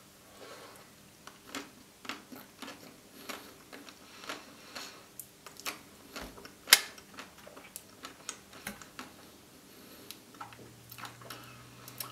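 Close-miked chewing of a mouthful of white-chocolate-coated ice cream sandwich: irregular small crunches and clicks, with one sharp louder crunch about seven seconds in.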